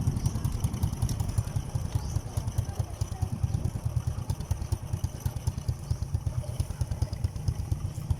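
Motorcycle engine running steadily, a low, rapid pulsing of its firing strokes.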